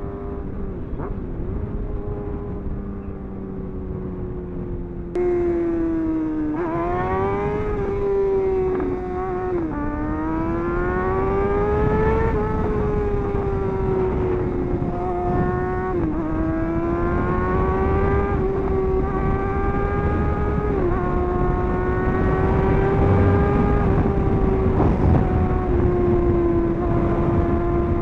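Sport-bike engine running steadily at first. About five seconds in it gets suddenly louder and accelerates hard through the gears: the pitch climbs and drops at each upshift several times, then holds steady at high revs. A constant rush of wind noise runs underneath.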